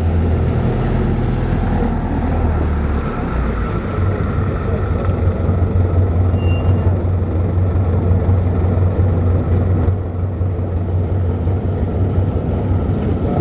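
An engine running steadily, a continuous low mechanical drone.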